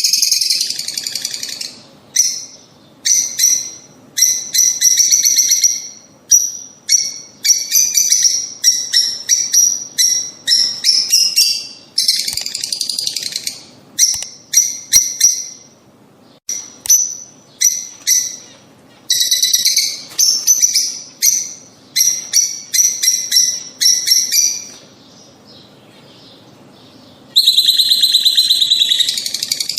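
Lovebirds chattering with shrill, rapid chirps in bursts separated by short pauses. There is a brief lull near the end, then a dense spell of continuous chattering.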